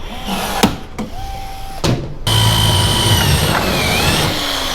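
A couple of sharp clicks, then about two seconds in a power drill starts and runs steadily, countersinking a hole in aluminium frame metal. Its pitch sags briefly near the end as the bit bites under pressure.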